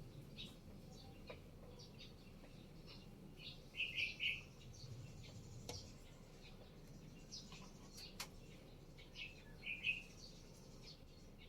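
Birds chirping in short, high calls, with two louder bursts of chirps about four and ten seconds in, and a few faint clicks.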